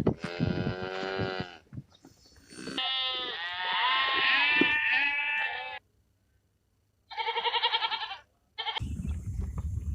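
Bleating of small livestock: a call in the first second and a half, then a longer wavering call with several voices overlapping, then a break of silence and a quick trembling bleat. A rough noise comes in near the end.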